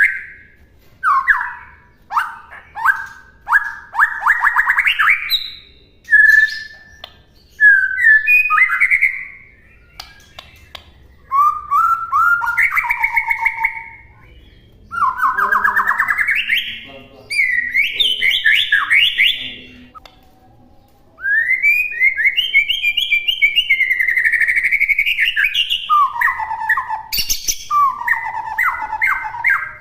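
White-rumped shama (murai batu) singing a long, varied song made of separate phrases: fast trills, rising and falling whistles and chattering notes. The phrases come in bursts of one to three seconds with short pauses between them, and a longer unbroken run of song starts about two-thirds of the way in. It is the kind of 'full isian' song, packed with varied and borrowed phrases, that is played to train other birds.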